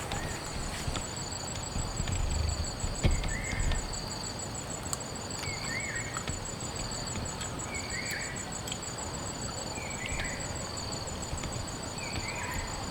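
Steady rain hiss with insects trilling in a fast, even pulse. A short, chirp-like call repeats five times, about every two seconds.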